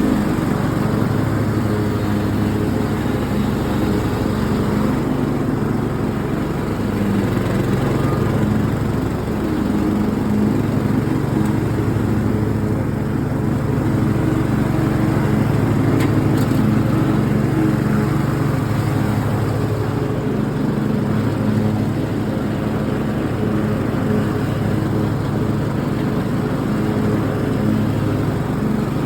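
T100 ride-on lawn mower's engine running steadily while cutting grass, with a constant even drone.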